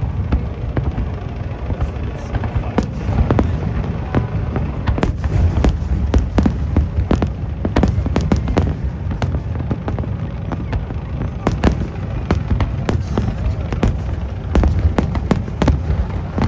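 Aerial fireworks bursting in rapid succession: many sharp cracks and bangs, several a second, over a continuous low rumble of booms.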